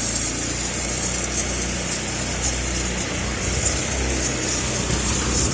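Pressure washer running steadily: a low motor hum under the hiss of its water jet, which rises and falls as the spray moves.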